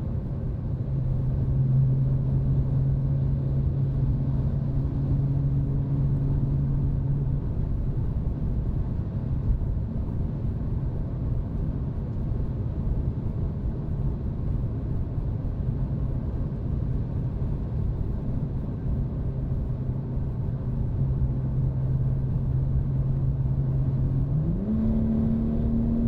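BMW 540i's B58 3.0-litre turbocharged inline-six with a muffler delete, cruising with a steady exhaust drone over constant road rumble. Near the end the engine note rises sharply as it accelerates and holds at the higher pitch.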